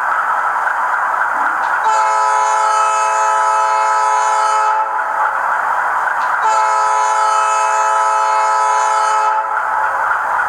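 Sound decoder of an HO-scale model GE Dash 9-44CW diesel locomotive playing through its speaker: a steady running sound, with two long multi-note horn blasts of about three seconds each, a couple of seconds apart.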